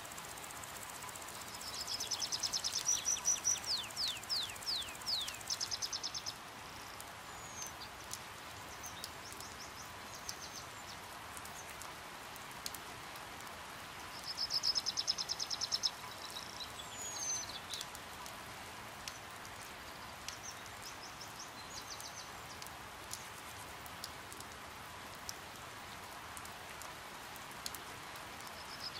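Steady rain falling, with a small bird's high-pitched rapid chips, trills and short downward-sliding calls in two loud bouts, one starting about two seconds in and another around the middle, and a few scattered single calls between.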